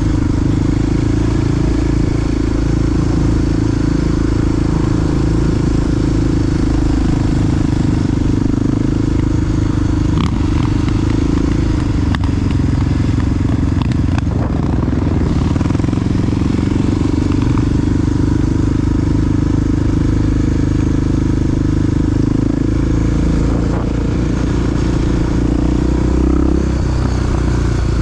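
Big single-cylinder four-stroke engine of a Honda XR dual-sport motorcycle running steadily under way, with a few faint clicks about halfway through.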